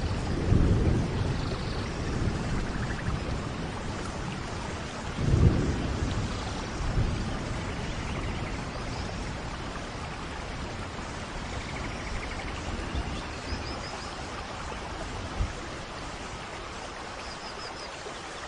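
Steady rain of a rainforest thunderstorm with rolling thunder: a low rumble at the start and another about five seconds in, then the rain on its own with a few faint high chirps.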